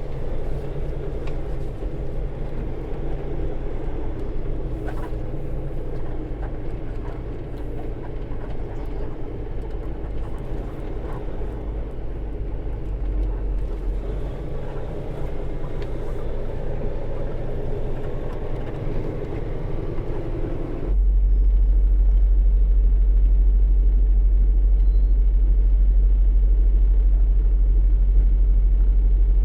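Semi truck engine and road noise heard from inside the cab while driving: a steady rumble. About 21 seconds in it changes abruptly to a louder, deeper rumble with the higher sounds cut off.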